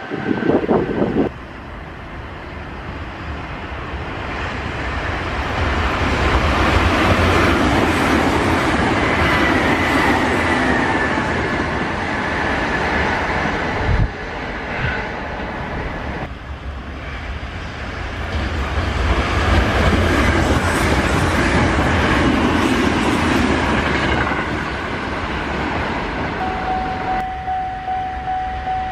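Sanyo Electric Railway limited express electric trains passing at high speed: the end of one pass breaks off about a second in, then two passes each swell up with motor roar and rail clatter and fade away. A sharp thump comes about halfway through, and near the end a steady high tone starts.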